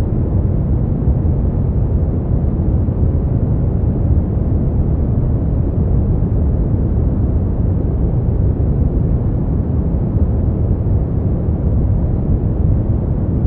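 Brown noise: a steady, deep rumbling hiss, strongest in the bass and with little treble, unchanging throughout.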